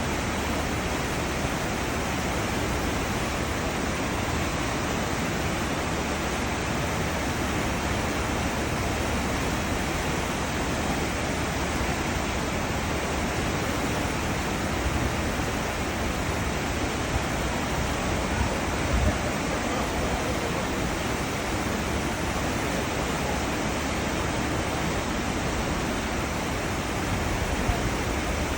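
Churning seawater in a cruise ship's wake: a steady, even rush of water with no let-up.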